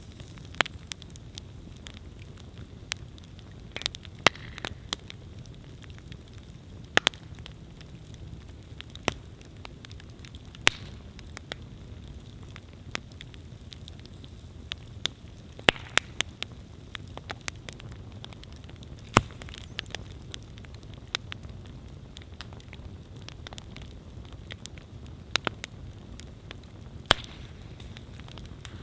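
Wood campfire burning: a steady low hiss with irregular sharp crackles and occasional louder pops.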